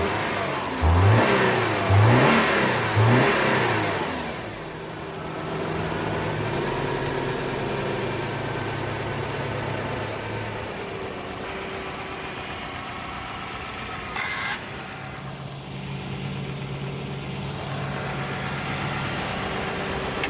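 2010 Subaru Impreza's flat-four engine revved in three quick blips, then settling to a steady idle. A short hiss cuts in briefly about fourteen seconds in.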